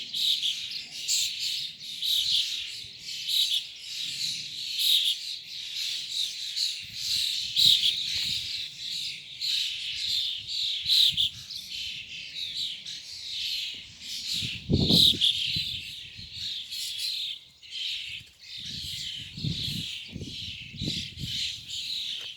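A flock of birds chirping and calling continuously, many short chirps overlapping, with a few low thuds or rumbles in the second half.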